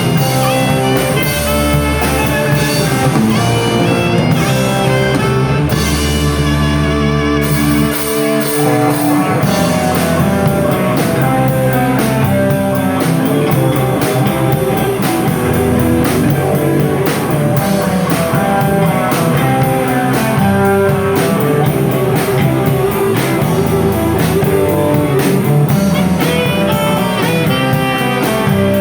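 Rock band playing live: guitars over bass and drum kit, with no singing. The drums settle into a steady run of hits about nine seconds in.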